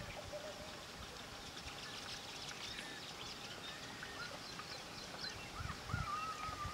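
Birds chirping and calling over a faint, steady outdoor background hiss: many short high chirps through the middle, then a longer whistled note near the end.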